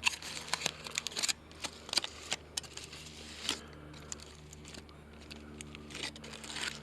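Wrapping crinkling and crackling in a string of irregular sharp clicks as the packet around a grilled fish is pulled open.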